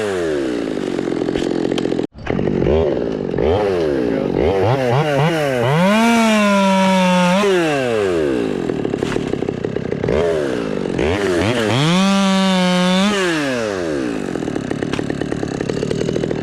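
Two-stroke chainsaw revved up and down in repeated throttle blips, twice held at full throttle for a second or more, about 6 and 12 seconds in, before dropping back to idle. The audio drops out briefly about 2 seconds in.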